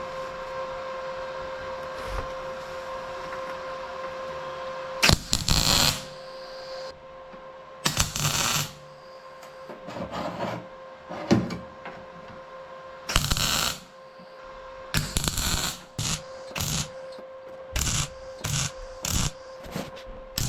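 Welder laying a series of short welds on car body sheet metal: crackling bursts begin about five seconds in, a few longer ones at first, then quick stitches about every half second near the end, over a steady hum.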